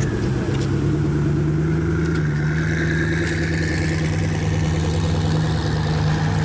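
A car engine running steadily at a near-constant speed, a low even hum.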